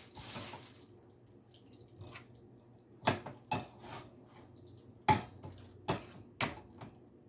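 Water running into a kitchen sink, fading out about a second in, followed by about five sharp knocks and clatters of dishes or food containers in the sink as leftovers are emptied into the disposal.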